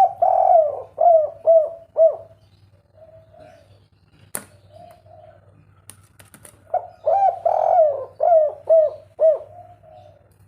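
Spotted dove (tekukur) singing a 'kuk 3' cooing song: two phrases of rapid, looping coos, one at the start and one about seven seconds in, with softer single coos between. A sharp click about four seconds in, over a steady low hum.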